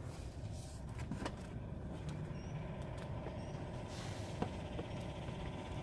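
Steady low rumble of an idling vehicle engine, with a few light clicks and knocks over it.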